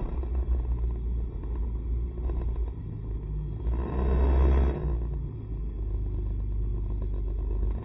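SCR110 scooter running while riding, a steady low rumble of engine and road noise, with a louder rush about four seconds in.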